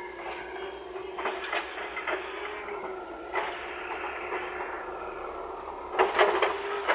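Wheeled excavator working: a steady engine drone, with scattered metallic clanks and scrapes and a louder burst of clattering about six seconds in.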